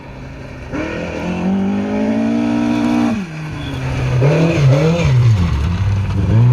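Rally car engine at full throttle, the note climbing for about two seconds, then dropping sharply just after three seconds in as the driver lifts or changes gear. The revs then waver up and down before climbing and holding high again.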